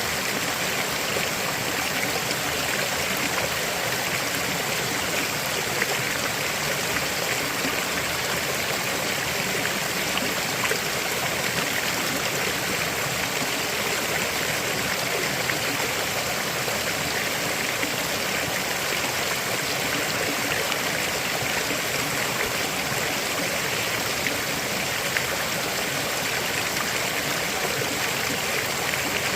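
River water flowing over rocks: a steady rushing and babbling that holds even throughout.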